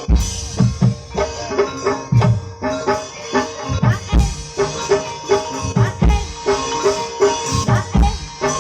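Javanese gamelan music accompanying an ebeg horse dance: hand-drum strokes in a lively, uneven rhythm over steady ringing metal gong-chime tones.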